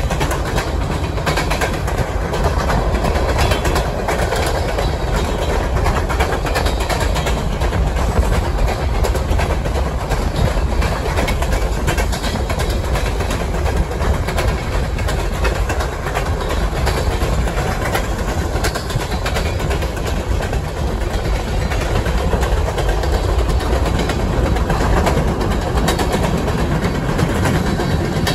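Freight train of covered hopper and tank cars rolling past, a steady rumble with the steel wheels clacking over rail joints.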